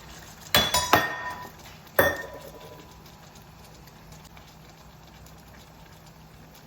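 Metal cookware clinking: three quick knocks about half a second in and one more at two seconds, each leaving a brief ringing tone.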